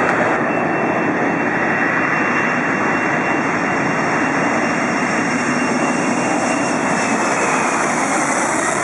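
Jet engines of a Boeing 747-400 freighter running at high power on its departure, a steady loud noise with a faint whine above it.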